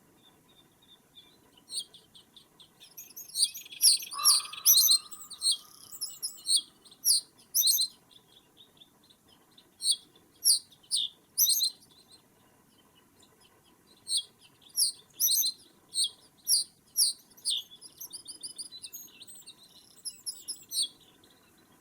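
Small birds calling in a bog, giving short, high chirps in irregular bursts, with gaps of a second or two between clusters. About four seconds in, a lower, drawn-out note sounds among the chirps.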